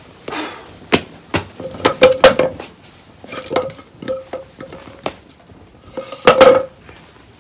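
Hard metal objects knocking and clinking: a dozen or so sharp strikes in irregular clusters, several with a short metallic ring. The loudest come about two seconds in and near the end.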